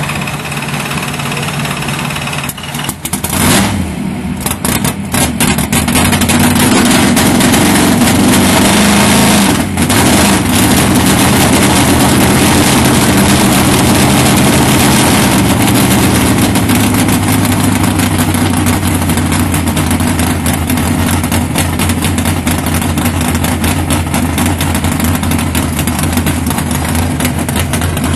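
Drag race car engine running loud. It revs up sharply a few seconds in and then holds at a high, steady level, with a brief dip about ten seconds in.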